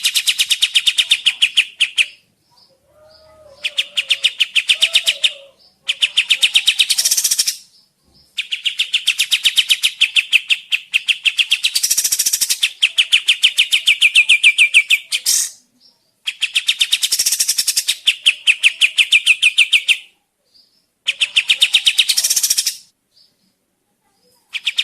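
Kapas tembak bird song: fast, rattling trills of rapidly repeated notes, sung in loud bursts of two to four seconds with short pauses between them. This is a lure recording used to make other birds answer.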